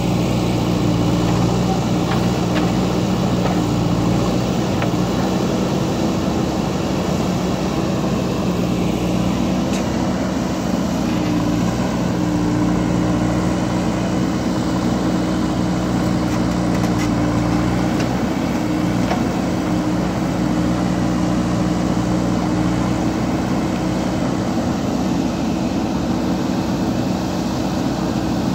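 JCB backhoe loader's diesel engine running steadily, its pitch wavering slightly as it works, with a few faint clicks about halfway through.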